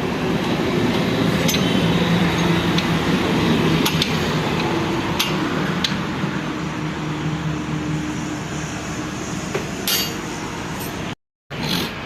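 Metal tools and parts clinking during tractor gearbox work: a handful of sharp, separate metallic clinks over a steady background hum. The sound drops out for a moment near the end.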